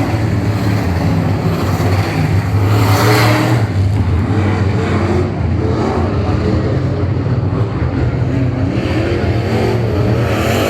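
Late model stock car's Chevy LS V8 engine running hard at racing speed, a steady, loud engine note with a brief swell about three seconds in.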